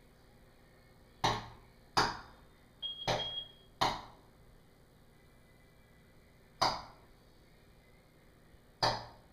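A small bird striking a window pane again and again with its body, sharp knocks on the glass, about six at uneven intervals, each ringing briefly.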